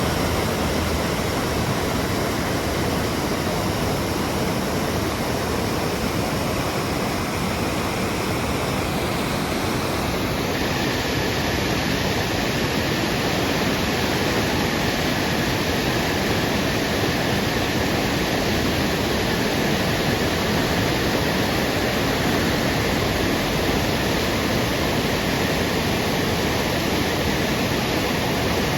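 Waterfall rushing in a loud, steady roar of falling water, with a slight brightening in the hiss about ten seconds in.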